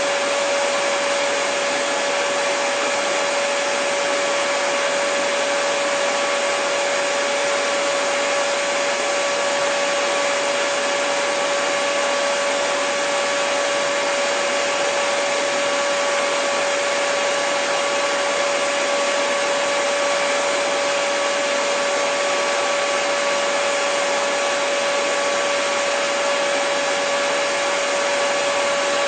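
Handheld hair dryer running steadily: an even rush of blown air with a steady motor whine, unchanging throughout.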